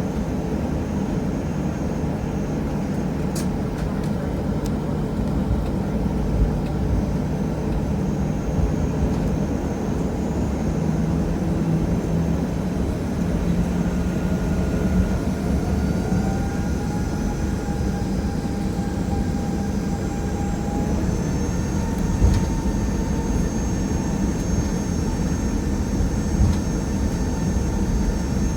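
Steady low rumble inside the cabin of a Boeing 737-800 with its CFM56 engines running on the ground. A faint engine whine climbs in pitch in steps from about halfway through.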